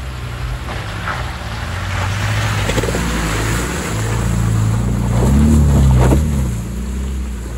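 A 4x4's engine running as it drives along a rough off-road lane. The engine note rises to its loudest about five to six seconds in, then eases back.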